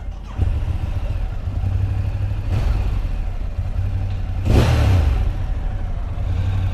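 Ducati Monster 1200R's L-twin engine starting up about half a second in, then running at a loud, lumpy idle, with a brief louder surge of engine noise past the middle.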